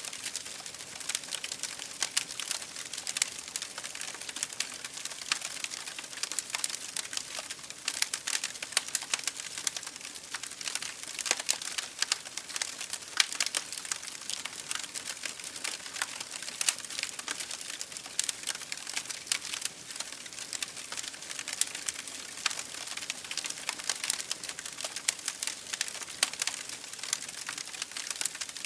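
Wood fire burning in an open fireplace, with a steady hiss and dense, irregular crackles and pops.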